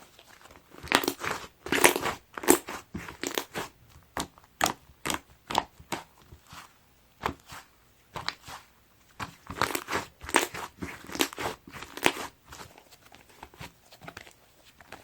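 Soft clay-mixed slime being pressed, squished and stretched by hand, giving irregular sticky crackles and sharp little pops, in two busier flurries separated by a quieter stretch.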